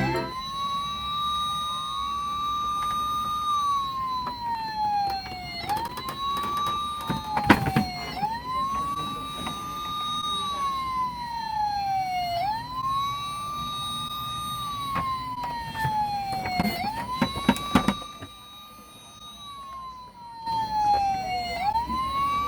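Fire-truck siren wailing. Each cycle rises quickly, holds high, then slides slowly down, and repeats about every four to five seconds. A few sharp knocks fall in the middle and again about three quarters of the way through.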